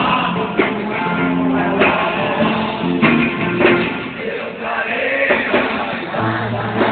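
Live music with guitar and a singing voice, sounding dull and low-fidelity with the treble cut off.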